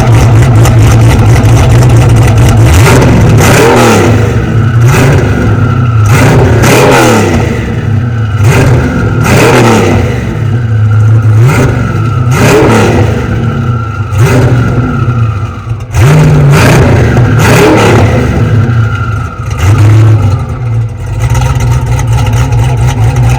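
Car engine revved again and again in short rising blips, roughly once a second, over a steady low rumble. It is very loud, close to overloading the recording.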